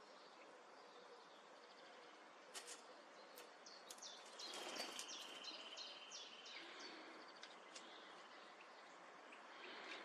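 Faint birds chirping over a steady background hiss, with a burst of short high calls and a rapid trill in the middle.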